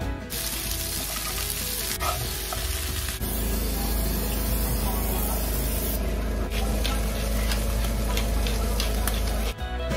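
Bacon and green beans frying in a pan, sizzling steadily. The sound changes abruptly about three and six seconds in.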